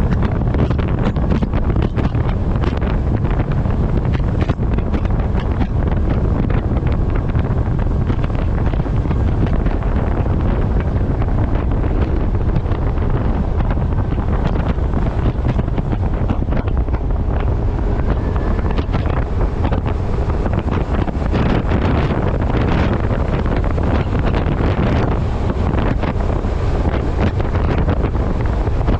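Heavy, steady wind noise buffeting the microphone of a camera strapped to the front of a moving truck.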